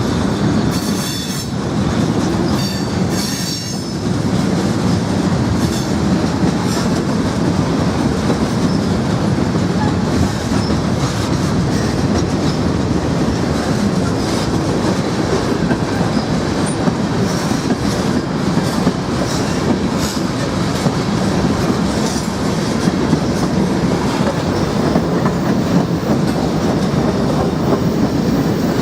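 Norfolk Southern freight cars rolling past, wheels clicking over the rail joints in a steady run. There is some high wheel squeal in the first few seconds.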